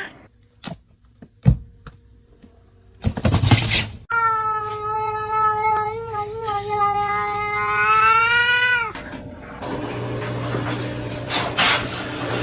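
A cat's long, drawn-out yowl lasting about five seconds, holding a steady pitch and dropping at the end. Before it come a few sharp clicks and a short burst of noise, and after it a steady hiss.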